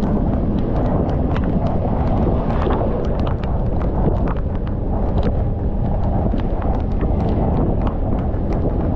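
Wind and road noise rumbling and buffeting on a moving motorcycle in heavy rain, with frequent irregular sharp ticks of raindrops striking close by.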